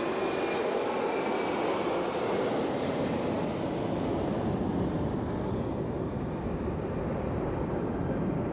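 Airbus A340 jet airliner's four turbofan engines heard in flight: a steady jet rush with a high whine that slides down in pitch and fades out about halfway through, as the aircraft passes and moves away.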